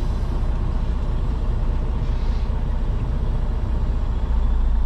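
Semi tractor's diesel engine running, heard from inside the cab as a steady low rumble that gets a little louder near the end, during the tug test that checks the tractor's parking brake holds against a gentle pull.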